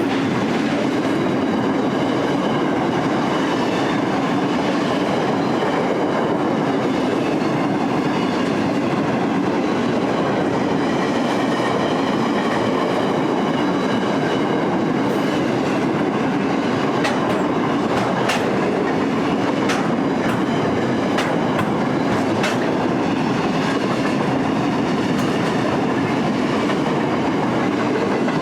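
Freight wagons of a long container and steel train rolling past at speed: a steady wheel-on-rail rumble with a faint high ringing. A run of sharp clicks from wheels striking rail joints comes about two-thirds of the way through.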